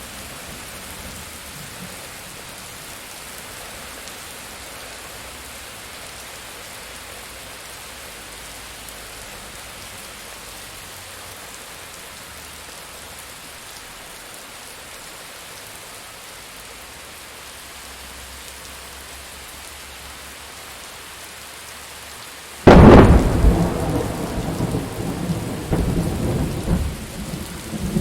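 Steady rain falling in a thunderstorm, with a sudden loud thunderclap about 23 seconds in and a long rolling rumble after it.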